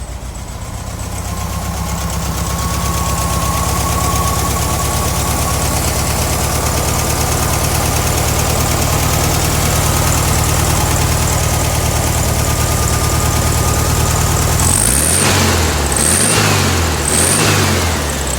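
1969 VW Beetle's air-cooled flat-four engine idling steadily, then revved briefly three times near the end before settling back to idle.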